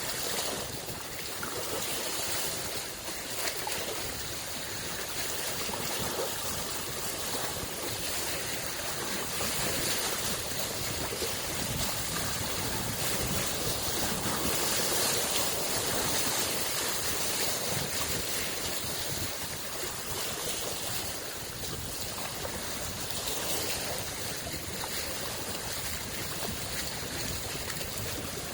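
Small lake waves lapping and washing at the shore in a continuous gentle wash that swells and eases every few seconds.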